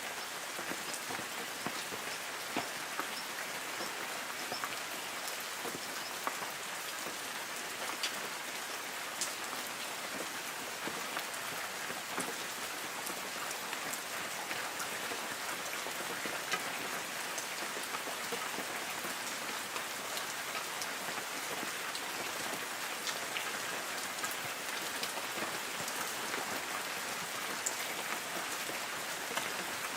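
Light rain falling on forest trees: a steady patter of drops on leaves, with scattered individual drips standing out.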